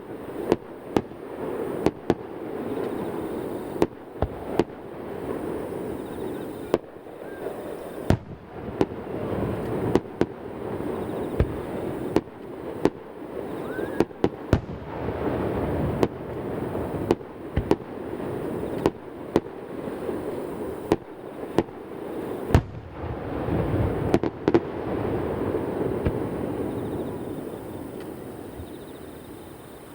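Fireworks display: aerial shells bursting in rapid succession, several sharp bangs a second at times, with the booms echoing and rumbling off the surrounding mountains. The barrage thins out over the last few seconds.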